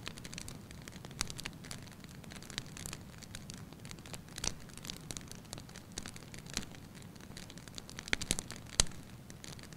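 Wood fire in a fireplace crackling and popping over a low steady rumble, with irregular snaps and a quick burst of louder pops near the end.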